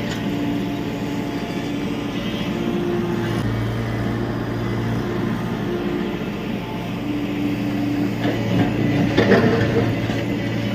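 Tata Hitachi EX70 Super Plus excavator's diesel engine running under load, its pitch shifting a few times as the hydraulics work. About nine seconds in comes a loud clattering crash, the loudest moment, as the machine breaks into the structure.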